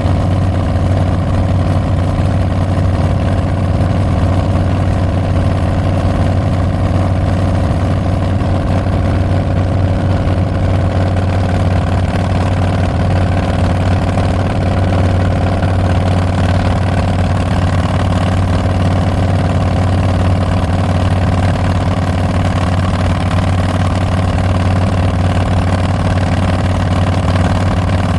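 Harley-Davidson Street Bob's Milwaukee-Eight 114 V-twin running steadily through Tabs Performance slip-on mufflers with Zombie baffles, a loud, low exhaust note that holds even throughout with no change in revs.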